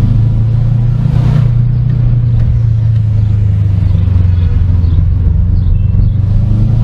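Car engine running at a steady speed, a loud, even low drone, with a brief rushing swell about a second in.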